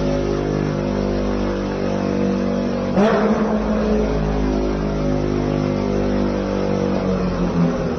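Intro sound effect of a car engine running steadily, with a sudden swishing hit about three seconds in.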